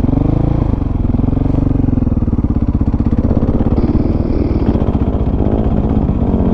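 Dirt bike engine running under way, its pitch rising and falling briefly near the start and then holding steady.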